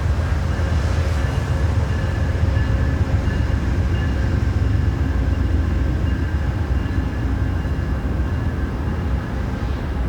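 Passenger train running past with a steady, heavy low rumble and faint steady tones above it.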